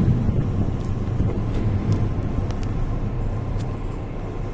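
Kobe City Subway Seishin-Yamate Line train running, a steady low rumble heard from inside the car with a few faint clicks, slowly getting quieter.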